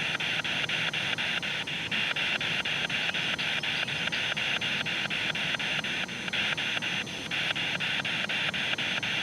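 Spirit box radio scanning through stations: a steady hiss of static chopped by a click about four times a second as it jumps from frequency to frequency.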